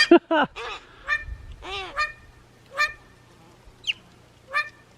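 Crows calling: a scattered series of about eight short, nasal caws. One thin high note comes near four seconds.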